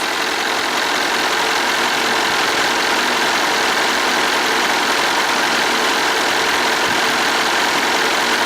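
Mitsubishi Canter's 4.9-litre intercooled turbo diesel engine idling steadily, with no revving.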